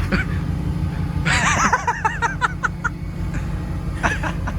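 Car engine running with a steady low hum. A person's voice rises and falls briefly about a second and a half in.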